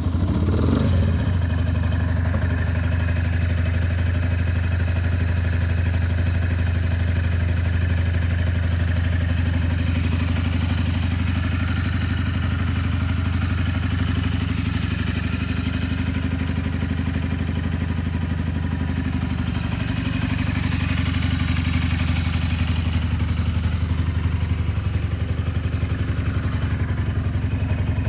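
Benelli BN 302's 300cc parallel-twin engine idling steadily, just fired up from cold.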